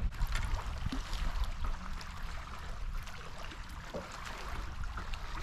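Water lapping and trickling around a small fishing boat, steady, over a low fluctuating rumble, with a few faint light knocks.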